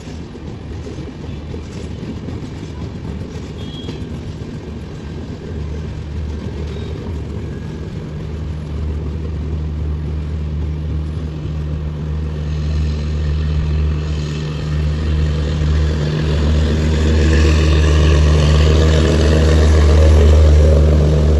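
Diesel generator of an Indian Railways end-on-generator power car running loud with a steady low drone, growing louder as the train's rear passes close by and loudest near the end, then cutting off suddenly.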